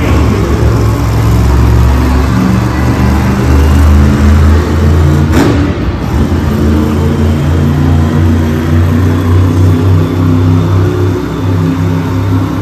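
Grave Digger monster truck's supercharged V8 running loud, its revs repeatedly rising and falling under throttle during a run, with a sharp bang about five seconds in.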